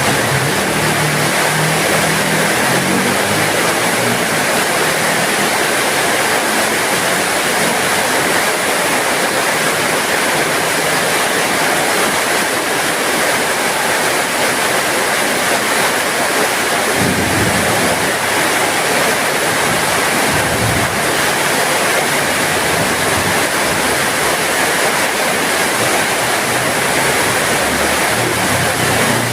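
Steady heavy rain falling, an even, unbroken hiss. Brief low rumbles come through near the start and again about two-thirds of the way in.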